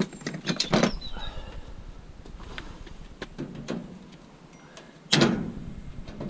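Pieces of scrap metal clanking and knocking as they are handled and sorted: a quick run of knocks at the start, a few scattered ones after, and one loud clank about five seconds in that rings briefly.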